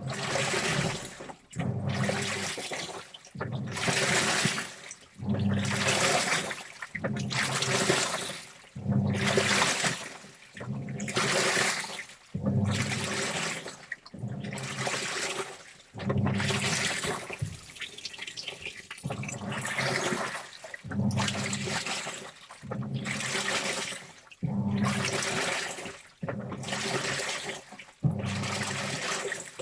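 Washing machine agitating a load of clothes in its wash cycle: a rhythmic rush of sloshing water with the motor humming under it, coming in strokes about every second and a half with brief pauses between.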